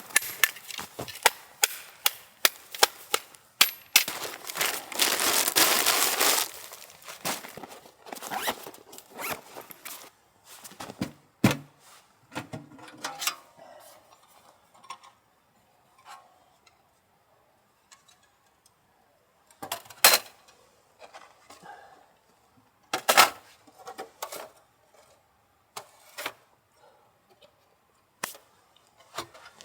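Clatter of sharp clicks and knocks, thick and fast for the first ten seconds with a burst of rustling noise about four to six seconds in, then a handful of single sharp knocks spaced a few seconds apart.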